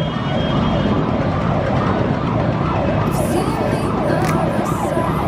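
A vehicle siren sweeping rapidly up and down, about two cycles a second, over a low rumble.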